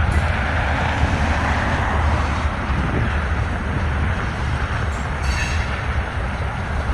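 Freight train rolling past, a steady rumble of cars on the rails, with a brief high-pitched wheel squeal about five seconds in.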